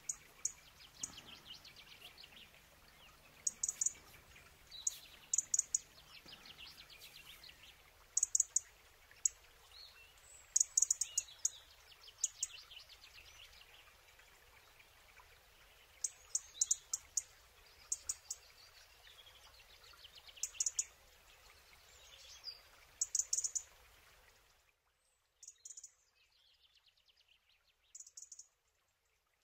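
Small birds chirping in short, high, repeated clusters every second or two, with some quicker trilling runs between them.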